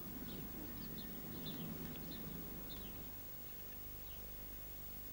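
Small birds chirping in short, quick, high notes, several a second, thinning out after about three seconds, over a low steady hum.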